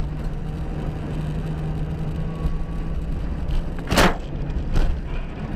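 Car driving with steady engine and road noise, then a loud sharp bang about four seconds in and a second, weaker bang under a second later.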